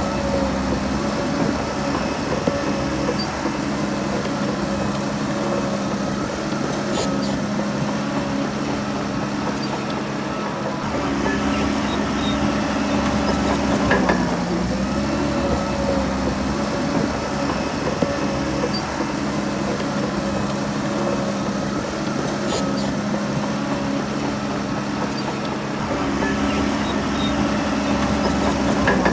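Heavy diesel engine of earthmoving machinery running steadily under load. Its pitch dips and recovers briefly about halfway through and again near the end, with a few faint metallic clicks.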